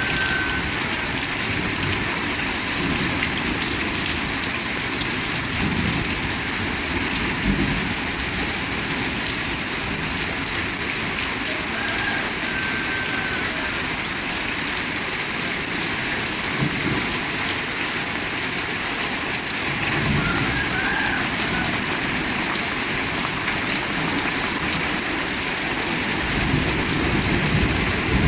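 Heavy rain falling steadily, a dense even hiss. Near the end a low rumble of thunder starts to build.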